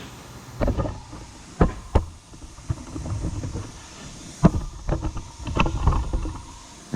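Irregular metal clanks and knocks with short rattles, a few of them sharp and loud, as a rusted truck exhaust is wrestled loose from under the vehicle.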